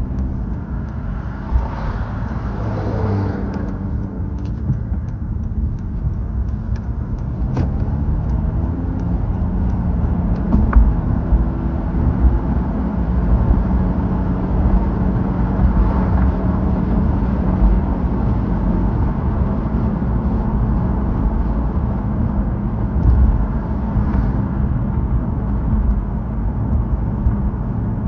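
Motor vehicle noise: a car's engine hum and road rumble running steadily, with a falling pitch about two to three seconds in.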